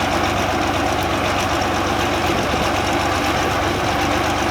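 Truck engine running steadily, with no revving or change in pitch.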